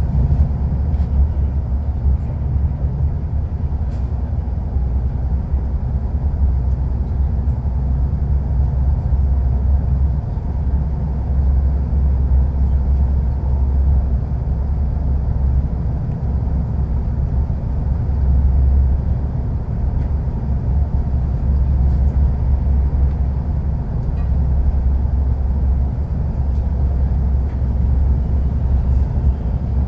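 Passenger train running along the track, heard from inside the carriage: a steady, deep rumble of wheels and running gear.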